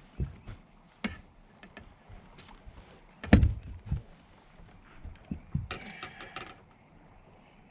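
Knocks and thumps of gear being handled on a fishing boat, a few separate hits with the loudest about three seconds in, then a quick run of clicks a little under six seconds in.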